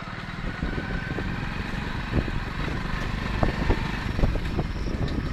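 A vehicle's engine running on the move, a steady low rumble with short knocks and rattles over it, most of them in the second half.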